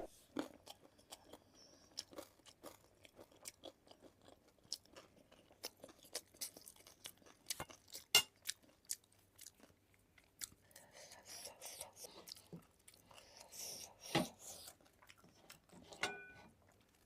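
A person chewing and crunching food close to the microphone: a long string of small, quiet crunches at an uneven pace.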